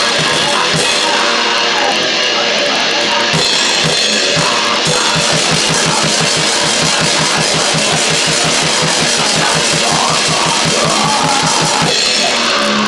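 Grindcore band playing loud and fast: distorted guitar noise over drums, with rapid, evenly spaced bass-drum beats.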